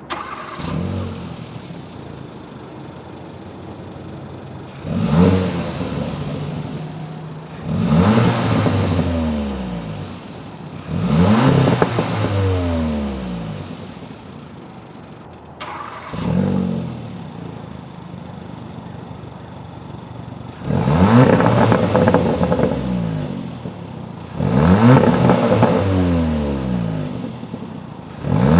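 Hyundai Veloster engine breathing through an aFe Takeda 3-inch stainless steel mid-pipe exhaust, idling and free-revved six times, each rev rising quickly and falling back to idle.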